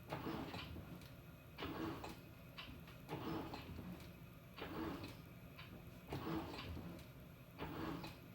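Panasonic NA-FA100H9 top-loading washing machine's pulsator turning in short back-and-forth strokes, churning the laundry. It makes a swishing burst about every one and a half seconds, six in all, over a low hum.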